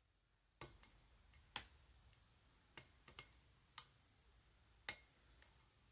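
Lock pick and tension wrench working the pin tumblers of a five-pin rim cylinder lock: about nine small, sharp metal clicks at uneven intervals as the pins are lifted one by one.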